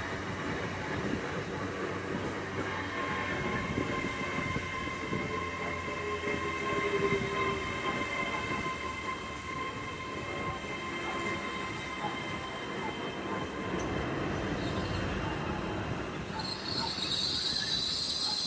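LNER Class 800 Azuma train rolling slowly into the platform, with a steady rumble and high squealing tones as it slows. A sharper, higher squeal sets in near the end.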